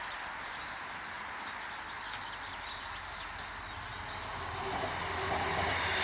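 Small birds chirping, then the rumble of a passing vehicle growing steadily louder from about four seconds in.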